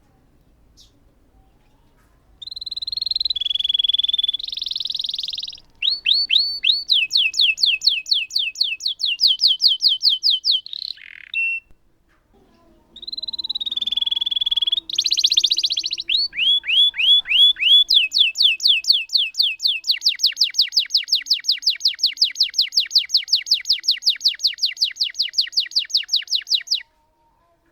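Domestic canary singing two song phrases of high whistles and trills with a short pause between them, the second ending in a long, even roll of rapidly repeated down-slurred notes that cuts off abruptly near the end.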